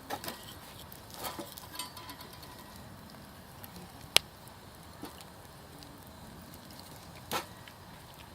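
Wood campfire crackling: scattered pops and snaps of burning firewood over a low hiss, with one sharp, loud crack about four seconds in.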